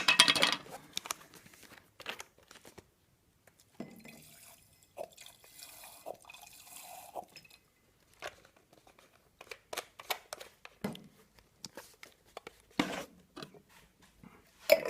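Handling noises of a glass jar pulse engine being readied: a sharp knock at the start, scattered clicks and taps, and a soft hiss about five to seven seconds in.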